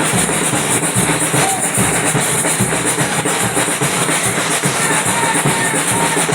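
Batucada samba percussion ensemble playing, a dense drum rhythm with repeated low drum beats under it.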